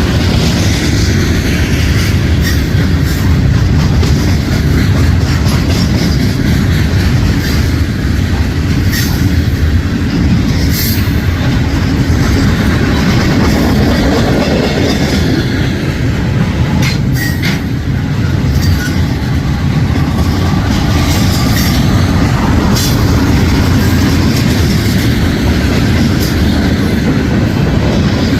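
Freight train rolling past at close range: a steady, loud rumble of cars on the rails, with occasional sharp clicks from the wheels.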